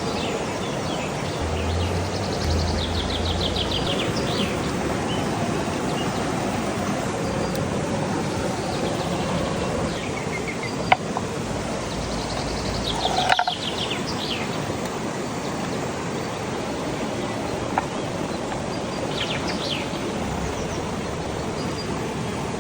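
Outdoor ambience: a steady noise bed with songbirds singing now and then, in short trills of rapid high notes.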